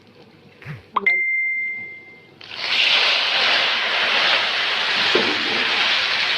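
A click and a short, steady high ringing tone, then a loud sizzling hiss begins about two and a half seconds in and keeps going: broth poured into a pot of pasta frying in hot ghee.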